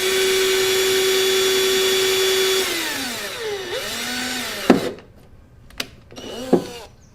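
Power drill running at a steady high speed for about two and a half seconds, boring a hole in the plastic fender liner, then winding down in pitch as the trigger is let off, with a short second spin-up and spin-down. A few sharp clicks follow near the end.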